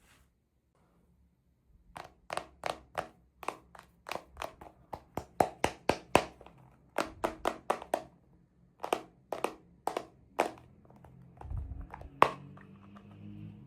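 Sharp plastic clicks and taps from small toy pieces and packaging being handled, about two dozen in quick irregular succession, the loudest near the end. Soft music comes in near the end.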